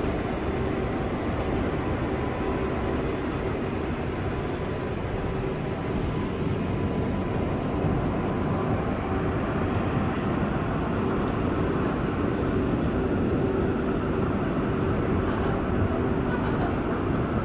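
R188 subway train running on the 7 line, a steady rumble with an even hum over it.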